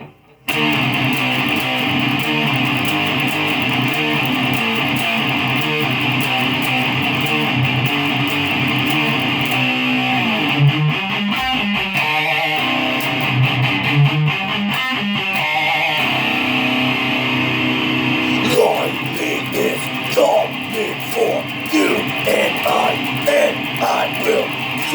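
Guitar music starting abruptly: full, sustained guitar chords, then a run of short picked notes over the last several seconds.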